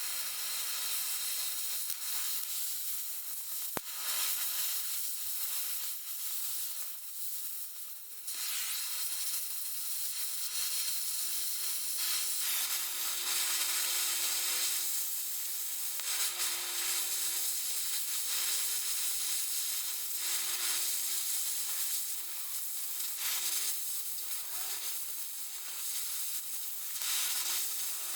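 Oxy-acetylene cutting torch hissing and sizzling as it cuts through steel.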